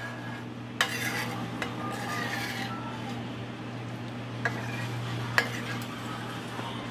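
A spoon stirring and scraping around a pan of Alfredo sauce, with two sharp clicks against the pan a little past the middle.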